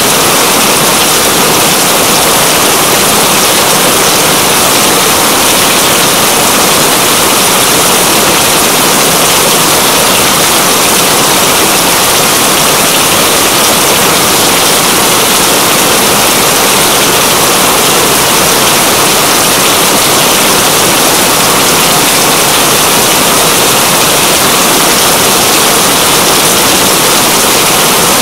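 Steady, loud rainfall: an even, unbroken hiss of rain.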